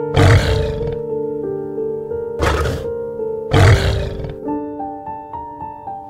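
Lioness roaring in three short bursts, near the start, at about halfway and again a second later, over soft background piano music.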